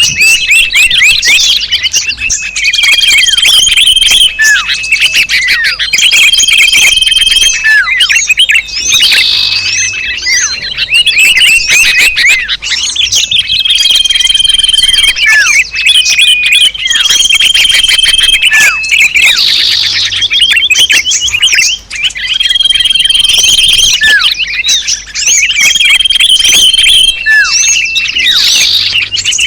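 Bird-lure recording mixing the chirps, twitters and whistled calls of many small birds. Dense high chirping is broken by short steady whistles, and the same sequence repeats about every ten seconds, as a loop.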